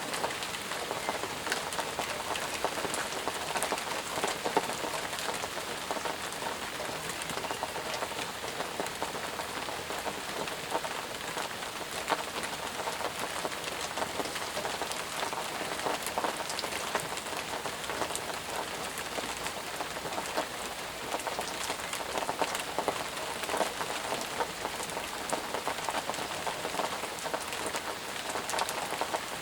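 Steady rain falling, a dense even patter with many individual drops ticking through it.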